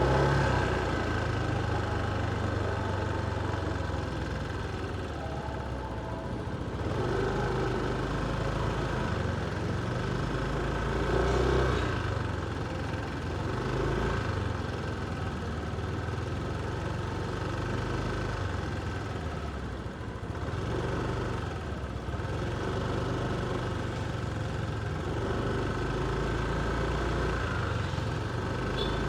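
Motorcycle engine running at low city speed from the rider's seat, its note rising and falling with throttle changes, over street traffic noise.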